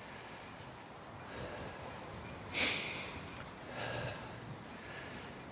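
A cyclist's breathing close to the microphone: a few short, breathy exhales over faint background noise, the sharpest one about halfway through.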